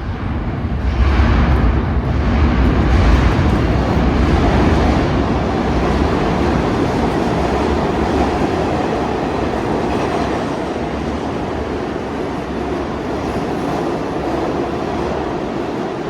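New York City subway train running through an underground station. The sound swells sharply about a second in, is loudest for the next few seconds, then settles into a steady, slowly easing run.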